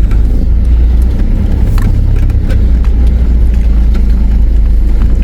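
Four-wheel-drive vehicle's engine and drivetrain making a steady low rumble as it creeps down a steep track entry, heard from inside the cabin, with a few light knocks.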